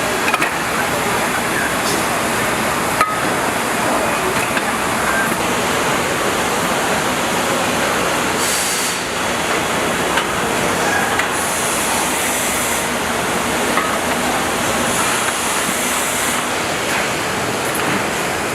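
Steady machinery noise of a factory floor, a dense even rush with scattered small clicks and short bursts of high hiss, like air releases, a few times.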